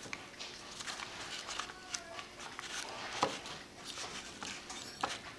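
Light rustling and scattered small clicks of glued bellows paper and the small wooden bellows being handled and pressed closed, with two sharper taps about three and five seconds in.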